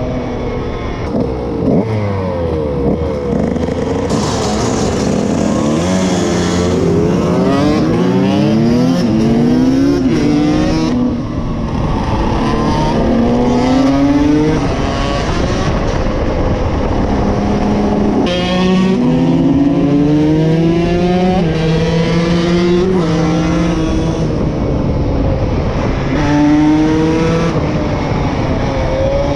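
KTM SX 150 two-stroke motocross engine under hard riding. The pitch climbs through the revs and drops back at each gear change, again and again, with steadier stretches at constant revs between.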